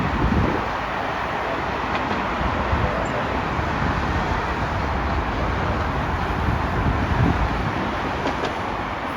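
Steady rumbling vehicle noise with a few low thumps.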